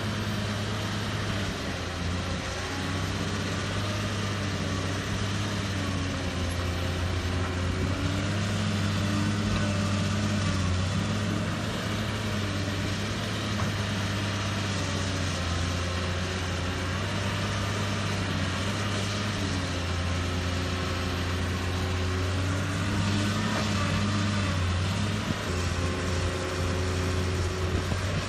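Heavy earthmoving machine's diesel engine working steadily, its note rising and falling every few seconds as the load changes.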